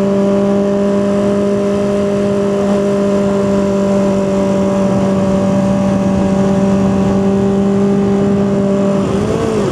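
Honda CB400/4 Super Sport's air-cooled inline-four engine running at steady revs under way, heard on board with wind rush. Near the end the engine note dips and climbs back to a new steady pitch: a gear change, which the rider calls a clumsy one.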